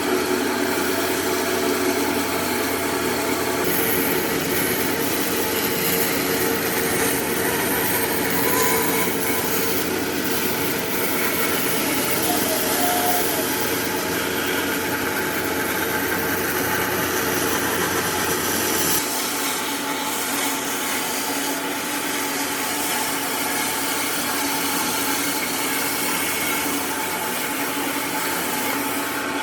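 Electric power tool running steadily while working wood, its motor tone and cutting noise continuous, with an abrupt change in the sound about two-thirds of the way through.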